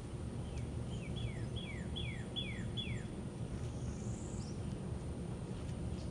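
A songbird sings a run of about six whistled notes, each sliding down in pitch, with one higher note a second later. Under it runs a steady low background rumble.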